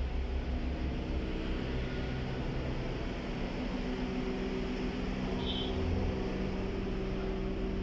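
A steady engine hum with a constant low pitch, with one brief high chirp about five and a half seconds in.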